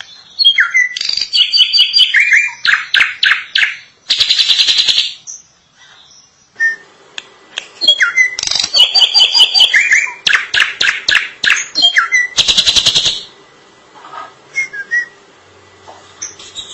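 Drongo (srigunting) singing: two nearly identical loud song phrases of clear whistled slurs and rapid chattering notes, each ending in a harsh, buzzy rasp about a second long, then a few faint scattered notes near the end.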